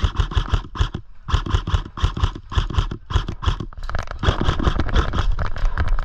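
Electric airsoft guns firing full-auto in rapid bursts, about ten shots a second, with short breaks between bursts.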